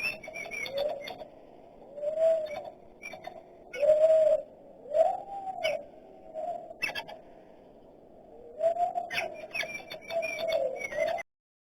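Dove cooing: a run of low, arching notes that rise and fall, about six in all, with higher bird chirps among them. The sound cuts off suddenly near the end.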